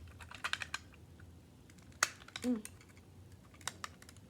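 Plastic LEGO bricks clicking as they are handled and snapped together: a quick run of clicks about half a second in, one sharp click about two seconds in, and a few more near the end.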